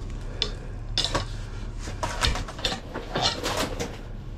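Metal scrap clinking and clanking as it is handled, a string of irregular sharp metallic knocks and rattles.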